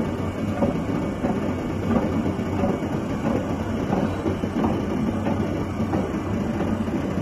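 Spiral blade (screw flight) forming machine running, with a steady low hum and a rhythmic clatter, about three knocks every two seconds.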